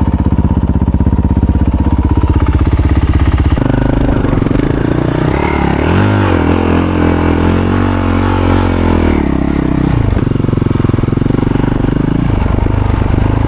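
Motorcycle engine running while riding, a steady pulsing note that changes about three and a half seconds in, then rises and falls in pitch for several seconds before settling again near ten seconds.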